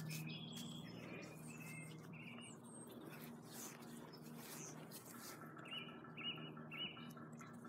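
Small birds chirping: a few short high notes early, then three in quick succession near the end, over a low steady hum.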